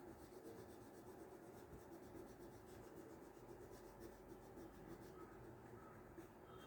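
Faint scratching of white colour being rubbed onto drawing paper to lay in snow on the mountain tops; otherwise near silence.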